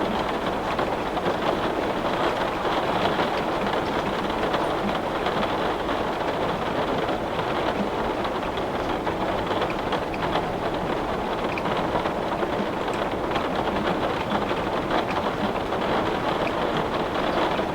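Heavy rain on window glass: a steady, dense patter with scattered drop ticks.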